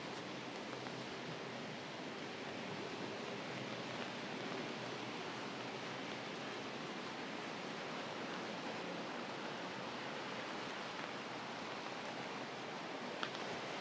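Steady rain falling on an umbrella overhead, an even hiss, with one small click near the end.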